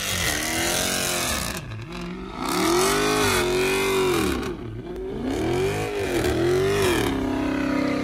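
Dodge Charger engine revving hard while its rear tyres spin in a smoky burnout, the engine note rising and falling again and again.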